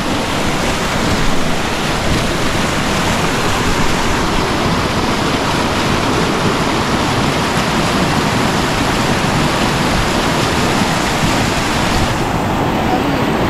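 Steady, loud rush of river water flowing over rocks. The hiss thins a little in its highest range near the end.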